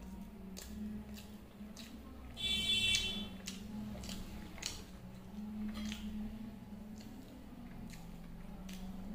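Mouth sounds of a person chewing pieces of Mysore masala dosa, with many short soft clicks. A steady low hum runs underneath, and a brief high-pitched tone sounds about two and a half seconds in, the loudest sound.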